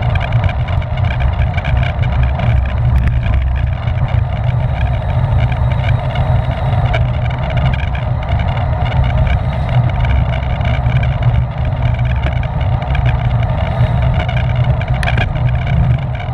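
Steady, loud wind rumble on the microphone of a camera carried by a rider in a bicycle race at speed, mixed with the hum of the bike's tyres and drivetrain. A single sharp click comes near the end.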